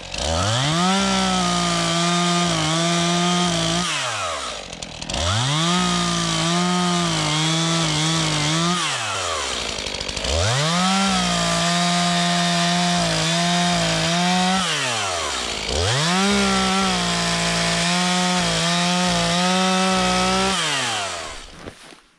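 Two-stroke chainsaw revved up and held at full throttle four times, about four seconds each, dropping back toward idle between, then stopping near the end. It is bucking a log into stove-length firewood rounds, one cut per rev.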